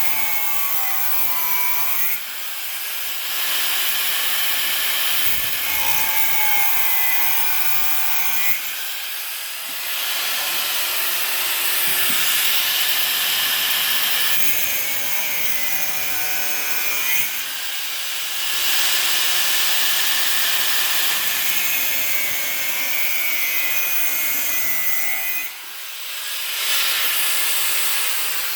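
A tool cutting or scraping at building material in long rasping passages of several seconds each, with short pauses between them and a whine that wavers in pitch.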